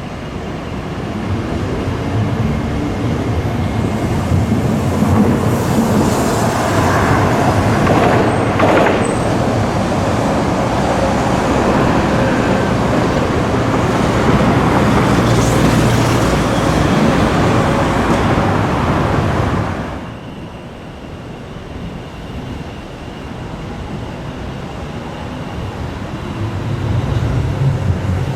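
Hiroden streetcar running on its rails, a steady rumble that builds over the first few seconds and stays loud. It drops suddenly about twenty seconds in, then rises again near the end.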